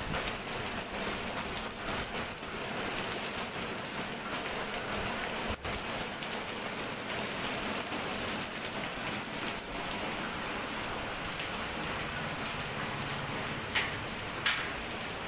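Heavy rain pouring down, a steady continuous hiss. Two short, sharp sounds stand out near the end.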